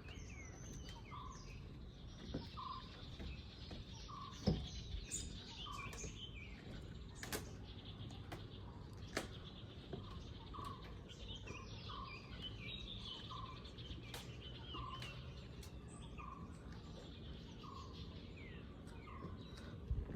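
Forest birds calling: one bird repeats a short, low note about once a second over a chorus of higher chirps. A few sharp clicks or knocks come through, the loudest about four and a half seconds in.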